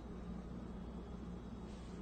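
Faint room tone: a steady low hum under a quiet hiss.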